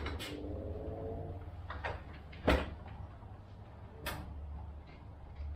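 A few separate wooden knocks and clunks, the loudest about two and a half seconds in, as a Honda 20 hp outboard motor is set and settled onto a homemade 2x4 wooden stand.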